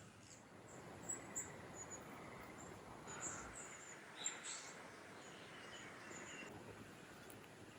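Birds chirping outdoors: scattered short, very high chirps over a faint steady background hiss, a few louder ones about a second in and again around four seconds in.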